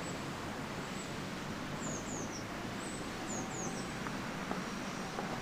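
Small birds chirping: short, high chirps that fall in pitch, singly and in quick pairs every second or so, over a steady background hiss.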